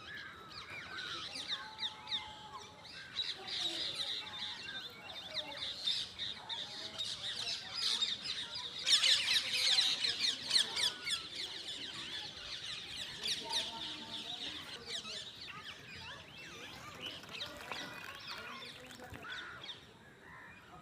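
Parrot calls: a dense, rapid stream of short, high chattering calls, loudest and thickest from about nine to eleven seconds in, then thinning out near the end.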